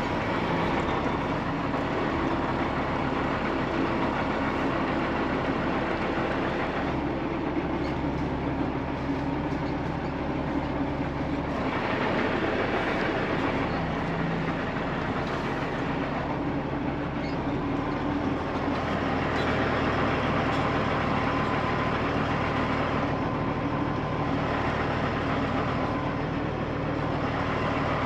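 Freightliner Columbia semi truck's diesel engine running steadily, its low note shifting about a dozen seconds in and again a few seconds later.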